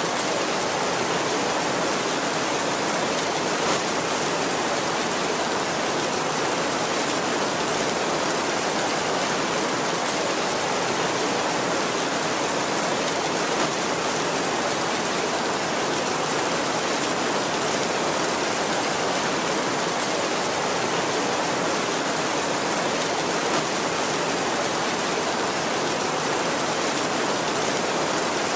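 Heavy rain falling steadily on a tin roof: a dense, even hiss with no thunder, and three slightly louder drop hits about ten seconds apart.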